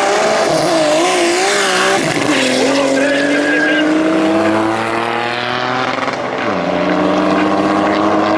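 Turbocharged BMW E30 drag car's engine on a run. The revs waver for the first two seconds, then drop and climb steadily under acceleration, with a gear change about six and a half seconds in, after which the pitch climbs again.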